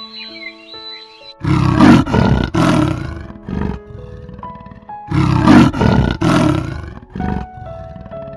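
Leopard's sawing call: two bouts of rasping grunts, a few strokes each, starting about a second and a half in and again about five seconds in, over soft background music.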